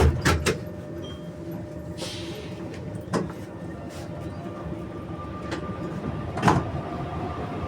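NS-93 metro train's sliding doors knocking shut at the start, then the car rumbling steadily as the train moves off. A short air hiss comes about two seconds in, with single knocks at about three and six and a half seconds, and a steady whine joins near the end.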